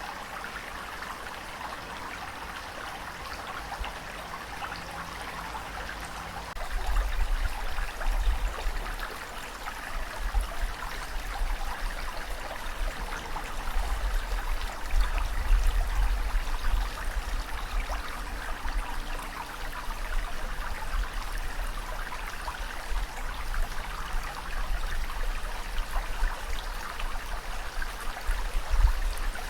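Steady rushing water, with a low rumble coming in about seven seconds in that swells and eases.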